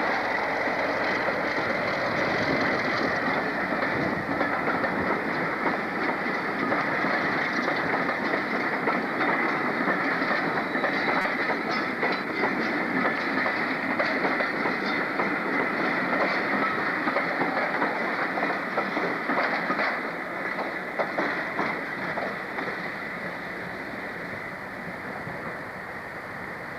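Train running past on the track, its wheels clattering over the rail joints, the sound dying away over the last several seconds.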